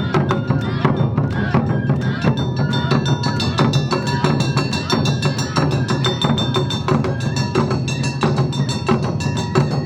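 Awa Odori dance music played live by a troupe's band: taiko drums and clanging kane gongs keep a brisk, steady beat under sustained pitched lines.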